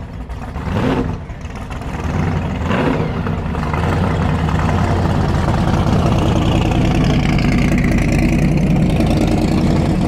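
A car engine running close by, with two short revs in the first three seconds, then a steady, louder idle that holds.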